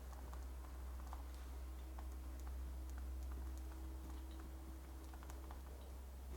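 Crackling wood fire: many small, irregular pops and snaps over a soft hiss and a steady low rumble.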